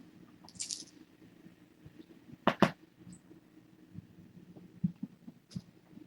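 Kittens moving about and playing in their pen: scattered light taps and patters, a brief rustle near the start and a louder double knock about two and a half seconds in, over a low steady hum.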